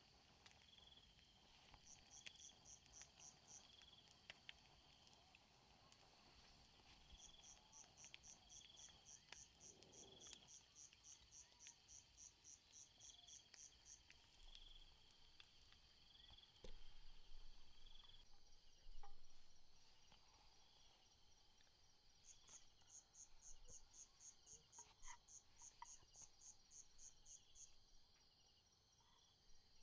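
Faint night insects chirping, likely crickets: runs of fast high-pitched chirps that come and go, over a slower, lower call repeating about once a second. A few faint clicks, and a brief louder rustle a little past halfway.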